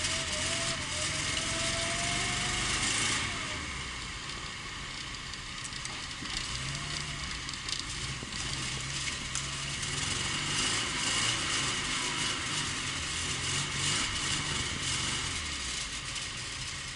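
VAZ Zhiguli car engine running at idle, its speed shifting up and down a little now and then.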